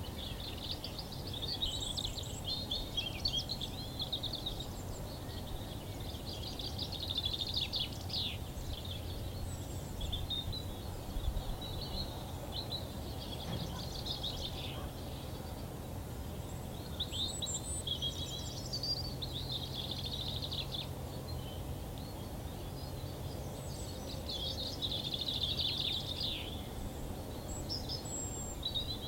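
Songbirds singing in short phrases of trills and chirps, separated by brief pauses, over a steady low background hum that fades out about two-thirds of the way through.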